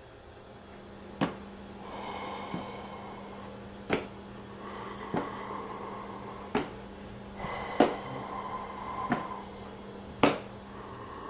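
Sharp knocks at an even pace, eight in all, about one every second and a quarter, over a steady low hum, with a faint high ringing tone that comes and goes between them.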